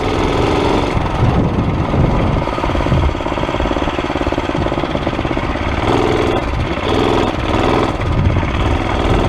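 Small Tecumseh engine on a Murray mini bike running under throttle while being ridden, its note changing as the throttle varies. The carburetor has just been cleaned and the engine is pulling with little hesitation.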